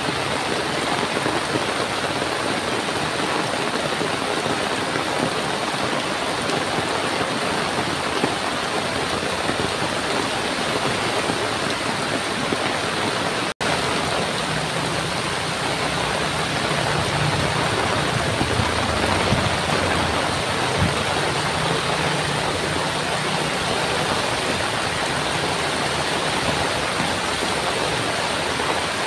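Heavy monsoon rain and floodwater rushing across a road, making a steady, even hiss. It cuts out for an instant about halfway through, and a low hum then rises under the rain for several seconds.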